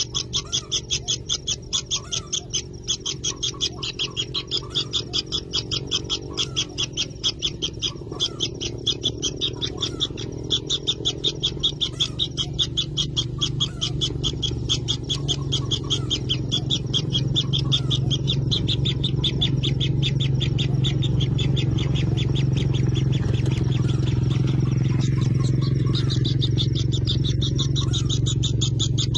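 Kingfisher nestlings in the nest burrow giving a fast, continuous run of rapid high chittering pulses. A steady low hum grows louder underneath.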